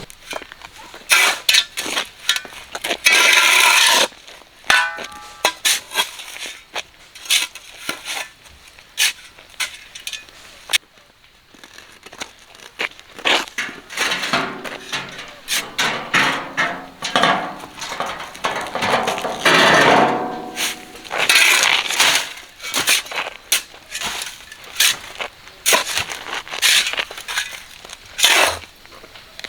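Repeated irregular scraping and knocking of a metal tool against a hard, gritty surface, with a short lull about eleven seconds in.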